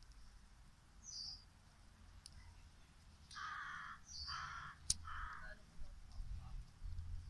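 Birds calling: a brief high chirp about a second in, then three harsh calls about a second apart in the second half, over a faint low rumble.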